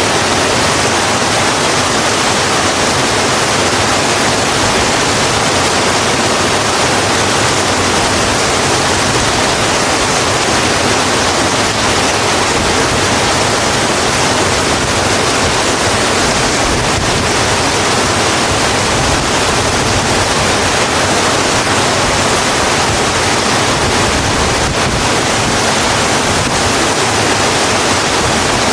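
Steady rainfall, an even unbroken hiss of rain with no single drops or thunder standing out.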